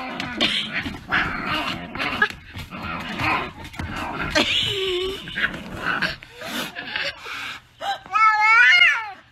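Scuffling and knocking, then about eight seconds in a loud, wavering, drawn-out cry from a pet animal.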